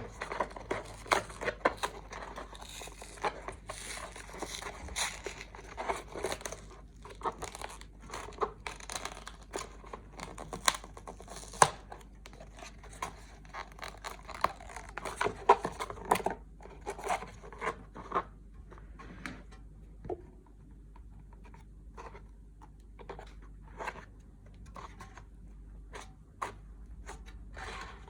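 Tearing, scraping and sharp clicks of a Bomber SW1200 subwoofer's glued center dust cap being cut and pried off by hand. The work is busy and irregular for most of the time, then thins to scattered light ticks and scrapes near the end.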